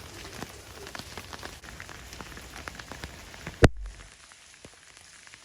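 Steady rain, with many separate drops ticking close to the microphone. A single sharp knock about three and a half seconds in, after which the rain sounds a little quieter.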